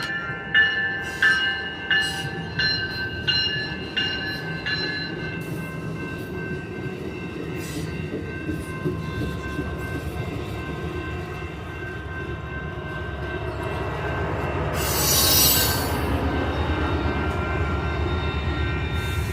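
Railroad crossing bell ringing about one and a half strikes a second for the first five seconds, then an Amtrak passenger train running over the crossing with a steady rumble of wheels on rail and a high wheel squeal. A short loud hiss comes about fifteen seconds in.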